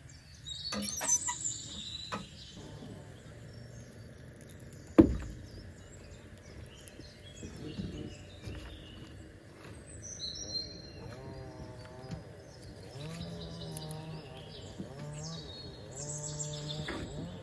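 Birds chirping in short high calls, with one sharp knock about five seconds in. In the second half, lower wavering calls from an animal or a person come in.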